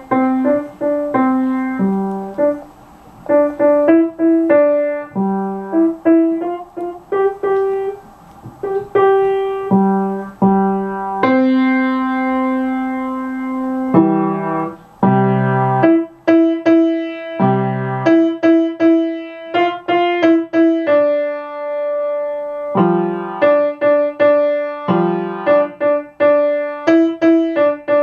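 Piano played by a student: a simple beginner melody of short separate notes, mostly one or two at a time, with a few longer held notes.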